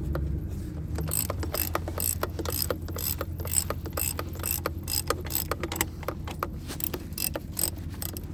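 Ratchet wrench clicking in quick runs as it backs off the threaded rods of a coil spring compressor, releasing the last of the tension on a car's rear coil spring.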